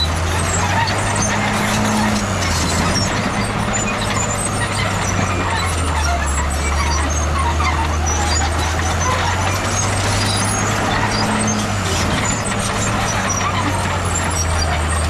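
A heavy diesel earthmoving machine running under load: a steady low engine drone that steps up and down in pitch a few times.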